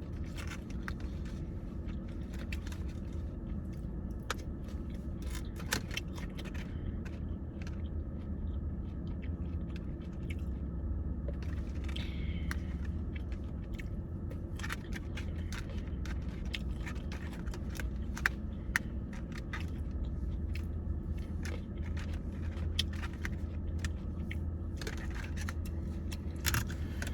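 Close-up eating sounds: chewing and crunching food, with scattered small clicks and scrapes of utensils and packaging, over a steady low hum.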